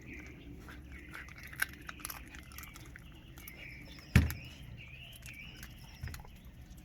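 Birds chirping, with scattered sharp clicks and one loud thump about four seconds in.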